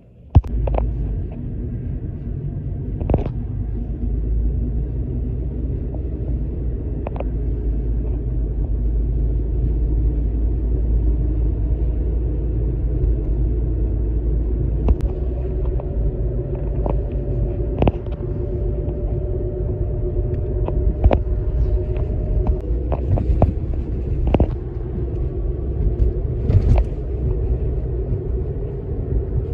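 Steady low road-vehicle rumble, engine and road noise, that starts abruptly about half a second in and carries on with a faint steady whine in the second half and scattered small clicks and knocks.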